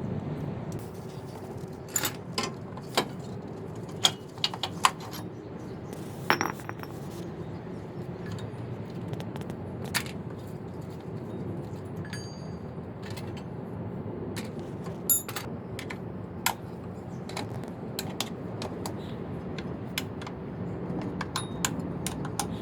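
Hand tools and metal parts clinking and knocking against each other at irregular moments during engine repair work, over a steady low background hum.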